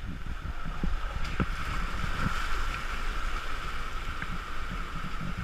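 Wind rumbling and buffeting on the microphone, with a few soft knocks, over a steady high-pitched drone.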